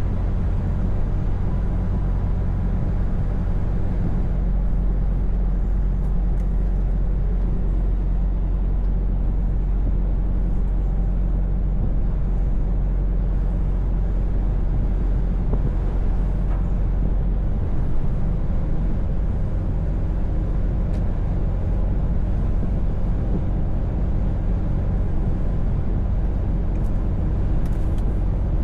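Scania V8 truck engine running steadily while the truck is under way, a low, even drone mixed with tyre and road noise.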